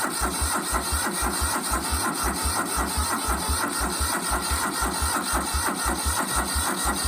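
1998 Cub Cadet lawn tractor's overhead-valve engine cranking on its starter in a cold start. It turns over with an even beat of about four to five compression strokes a second and does not catch, not firing even with gas pumped in: the men say it needs ether.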